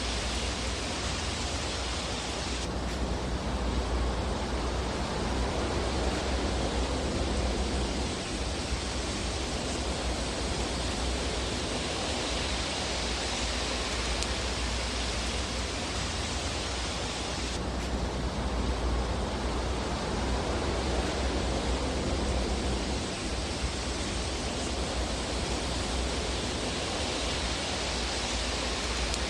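Fire burning in a fireplace as a steady, even rushing hiss with a low rumble underneath, and few distinct crackles.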